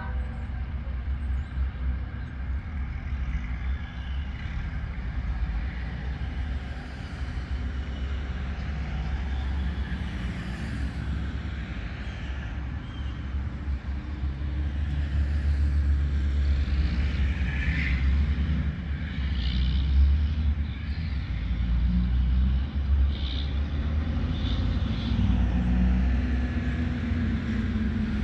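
Low rumble of an approaching diesel locomotive still out of sight, growing louder in the second half, with a few faint short higher-pitched sounds over it.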